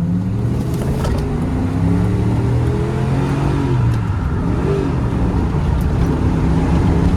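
Ram pickup truck's engine accelerating hard. The note climbs for about four seconds, drops at a gear shift, then pulls on more steadily.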